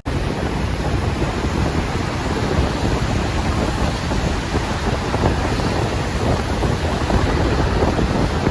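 Heavy rain pouring down in a loud, steady rush, with wind buffeting the microphone.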